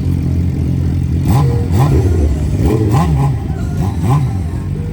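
An engine revved in a quick run of short blips over a steady idle, each rev rising and falling in pitch.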